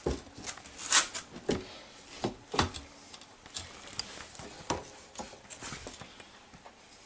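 Irregular knocks and clicks of hard objects being handled, with the loudest about a second in.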